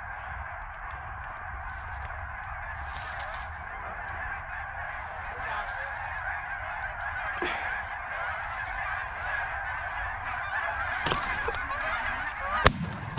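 A large flock of Canada geese honking continuously, growing gradually louder, then a single shotgun blast near the end.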